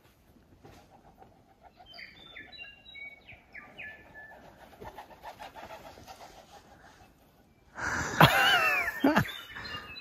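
Forest birds singing: a run of short, high, stepped notes, then a louder call with swooping, wavering pitch about eight seconds in.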